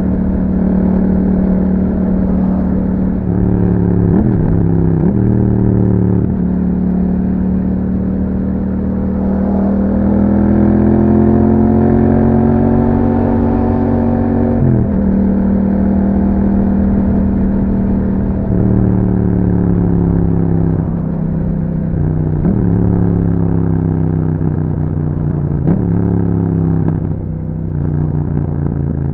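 2021 Yamaha MT-07's 689 cc parallel-twin engine running through an Akrapovic exhaust with dB killers while being ridden. Its note climbs steadily for several seconds around the middle, and drops sharply several times, with rev changes near the start and near the end.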